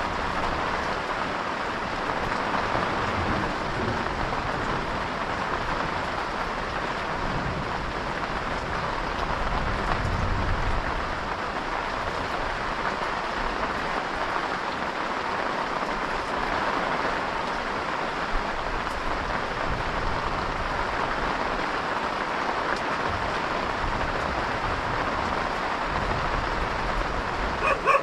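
Steady rain pouring down: a dense, even hiss of drops that holds level throughout.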